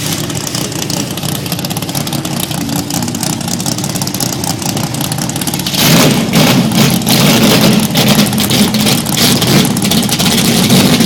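Dodge Challenger drag car's engine idling with an uneven, choppy rumble. It gets clearly louder about six seconds in.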